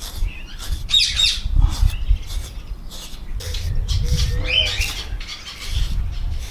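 Birds squawking and chirping in two short bouts, about a second in and again around four seconds in, over repeated scraping strokes of a grooming brush drawn through a husky's thick double coat.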